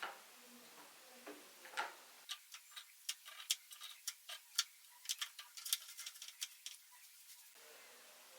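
An irregular run of light, sharp clicks and taps, a few per second, starting about two seconds in and stopping shortly before the end, as of small hard objects being handled.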